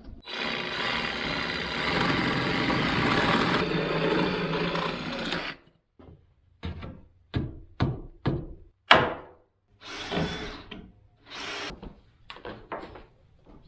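A power tool runs steadily for about five seconds and stops. Then come a string of sharp knocks and thuds on wood, about ten in all, one of them much louder than the rest.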